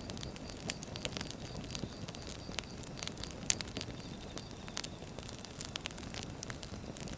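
Burning firewood crackling steadily, with frequent sharp, irregular pops over a low rumble of flame; one pop about three and a half seconds in stands out as the loudest.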